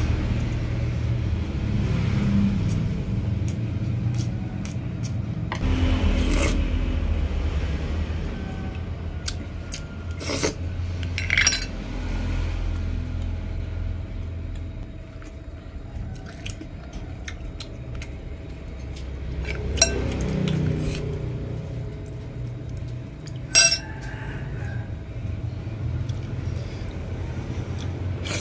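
Close-up eating sounds: chewing on braised pig's trotters and noodles, with a few sharp clinks of utensils against dishes, the loudest a little past the middle. A steady low rumble runs underneath.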